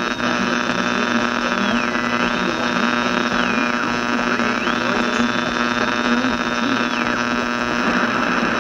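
Old radio's loudspeaker giving a steady mains hum with static hiss, and a thin high whistle over it that holds, drops in pitch and climbs back a few times before stopping about seven seconds in.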